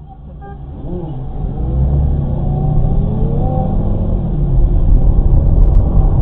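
Car engine and road noise, a low rumble from inside a moving car that grows louder over the first two seconds as it picks up speed, then holds steady.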